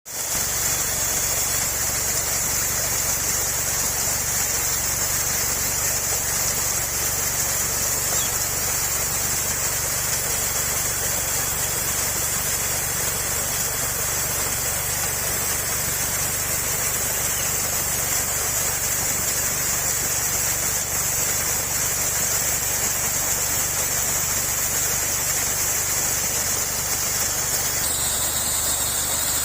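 Rushing waterfall water at night, a steady full hiss, under a constant high-pitched chorus of insects; near the end the insect buzz shifts slightly higher.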